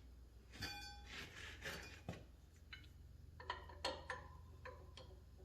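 Faint, light metallic clinks and taps from a homemade steel spanner wrench being worked onto a hydraulic cylinder's end cap. One clink rings clearly about half a second in, and a quick cluster of taps comes a little past halfway.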